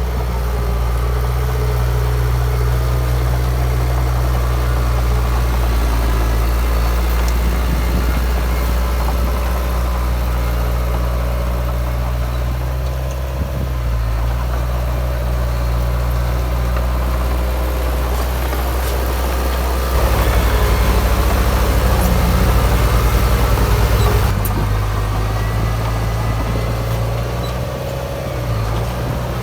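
Heavy diesel engines of earthmoving machines running steadily, louder for a few seconds about two-thirds of the way through.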